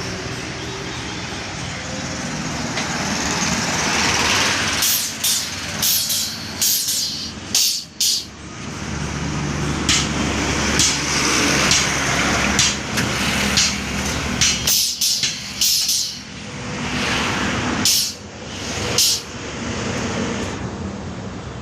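Truck engine running steadily, with about a dozen short, sharp air hisses between about five and nineteen seconds in.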